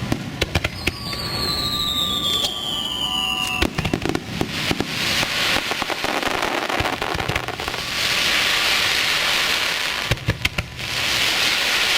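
Aerial fireworks going off: a run of sharp bangs, a whistle falling in pitch for about three seconds near the start, then dense crackling that fills the rest, loudest from about eight seconds in.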